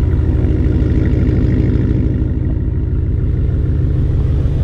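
2016 Ford F-150's 5.0-litre V8 idling steadily through its dual exhaust, shortly after a remote start. Its exhaust note is even and low, "not too crazy but just enough to let you know you got a V8."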